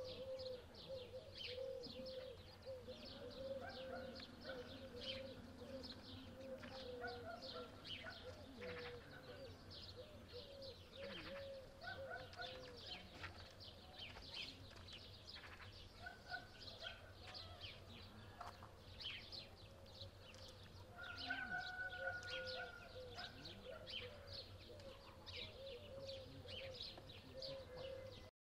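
Birds singing: many quick, high, downward chirps over a lower, wavering call that repeats throughout, with a few short whistles.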